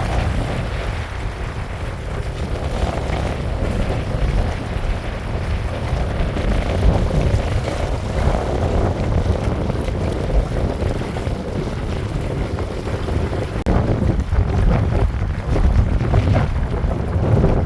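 Wind buffeting the microphone in a fluctuating low rumble, over a steady hiss of rain.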